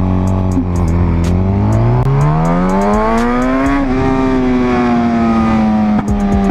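Motorcycle engine under the rider pulling hard through a gear, its pitch rising steadily for about three seconds, then easing off and falling slowly as the throttle closes.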